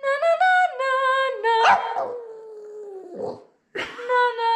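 A dog howling as if singing: one long held howl sliding slowly down in pitch, breaking off about three seconds in, then a second howl starting near the end.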